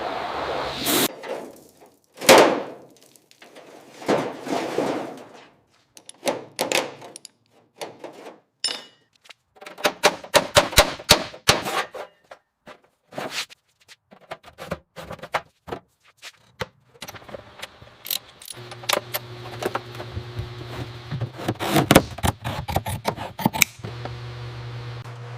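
A run of knocks, clicks and clattering, with a few whooshing swells, then a steady machine hum that starts about three-quarters of the way through.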